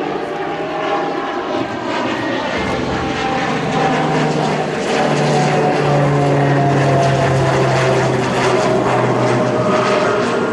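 Propeller airplane engines running with steady tones that slowly fall in pitch, getting louder about halfway through.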